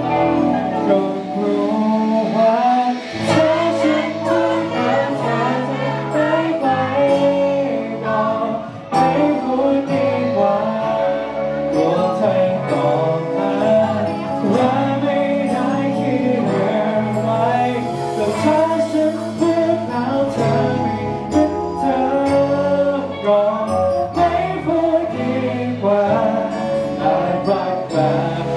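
Live band music: the opening of a Thai pop song played before the first sung verse.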